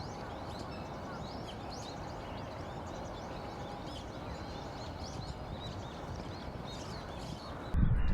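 Wild birds giving many short, high chirping calls in quick succession over a steady background hum.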